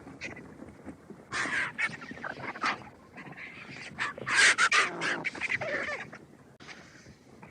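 Vulture calls: harsh, raspy bursts in two clusters, the louder one about four seconds in.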